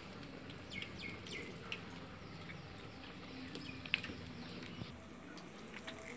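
Faint, scattered chirps of small birds in the background, with a single sharp click about four seconds in.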